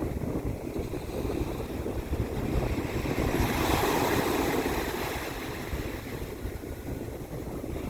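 Water washing and wind buffeting the microphone, with a wash of water swelling and fading about halfway through.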